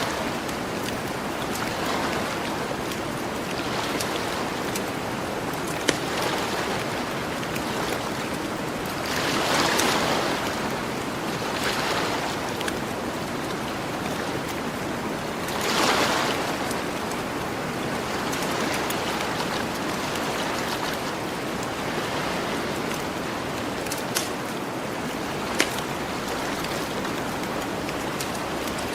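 Gentle ocean waves washing onto the shore, swelling and falling back every few seconds over a steady hiss of surf. A few single sharp pops from a crackling campfire, about 6 seconds in and twice near the end.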